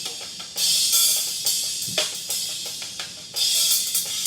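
Hi-hat track of a multitrack drum recording playing back: sharp hi-hat strikes and several longer open hi-hat washes, with faint snare and kick picked up as bleed on the hi-hat mic.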